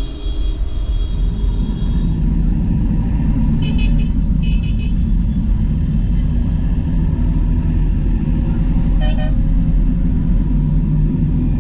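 Diesel farm tractors in convoy running past steadily, with short high horn toots twice about four seconds in and once more near the end.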